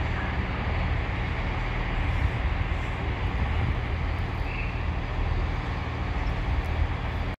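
A train running, with a steady low rumble and noise that stays even throughout.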